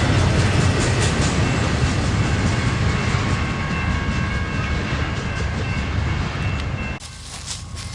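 Freight train rolling past, a steady rumble of cars with wheels clicking over rail joints and a faint thin wheel squeal. The sound drops suddenly to a quieter rumble about seven seconds in.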